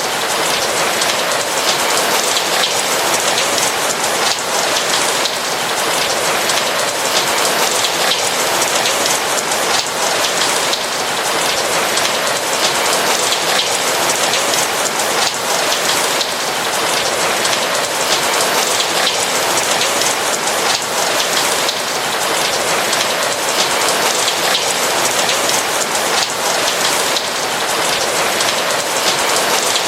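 Steady rain pattering on a roof, a dense, even rush of many small drop impacts.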